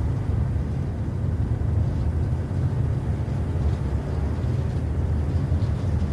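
Truck's engine and road noise heard from inside the cab: a steady low rumble.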